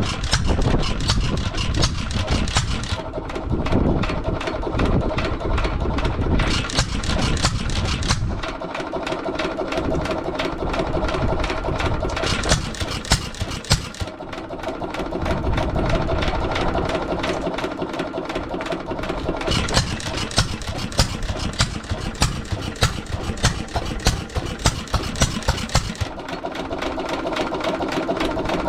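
Antique single-cylinder stationary gas engine running, with a rapid, regular string of firing and exhaust pulses. It is running fast, its speed control set all the way to fast.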